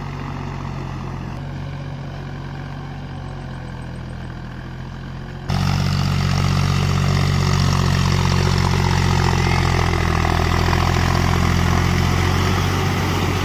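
John Deere 5050D tractor's diesel engine running steadily. About five seconds in, the sound jumps abruptly to a louder, closer engine.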